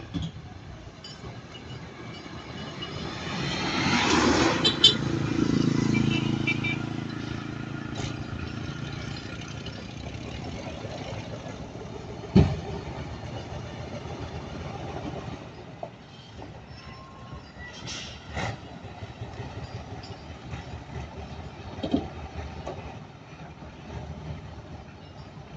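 A heavy hauler truck drives past, loudest about four to six seconds in, its engine note dropping in pitch as it goes by. After that a steadier vehicle rumble continues, with a few sharp knocks.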